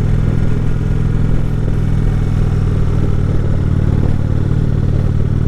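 Indian Chieftain motorcycle's V-twin engine running steadily while riding.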